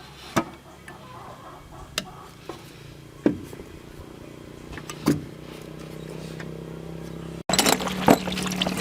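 An engine running steadily, with a few sharp knocks over it. About three quarters of the way through it cuts abruptly to a louder, noisier sound.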